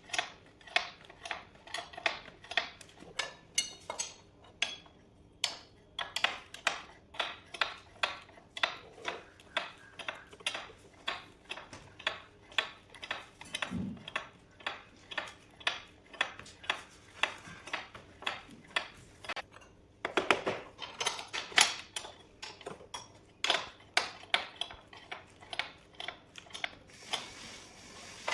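Metal tools working on metal parts: a long run of sharp metallic clicks and clinks, about two a second, with a single dull thud about halfway through.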